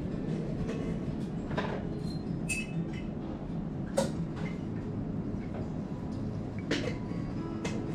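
A steady low hum with a few sharp clicks scattered through it, the loudest about halfway.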